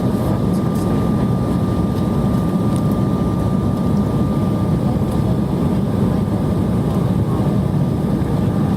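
Steady cabin noise of a jet airliner on approach: engine and airflow roar heard from a window seat, with a thin steady whine running through it.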